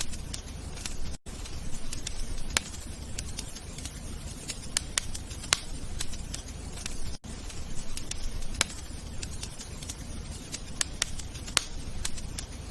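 Wood fire crackling: irregular sharp pops and snaps over a low steady rumble. The sound cuts out for an instant twice.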